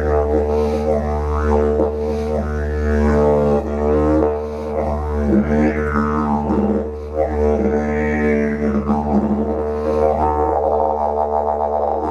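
Background didgeridoo music: a steady low drone with its overtones sweeping up and down as the player shapes the tone.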